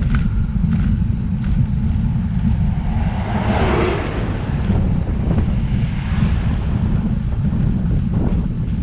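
Wind buffeting the camera microphone on a moving road bike: a heavy, steady low rumble. About three seconds in, a louder hiss swells and fades over a second or so.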